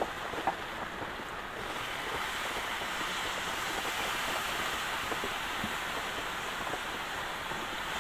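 Heavy rain falling as a steady, even hiss that swells slightly about two seconds in, with a few faint knocks.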